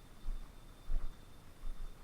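Footsteps on a jungle trail, a soft thud about every two thirds of a second, with a thin steady high insect tone behind.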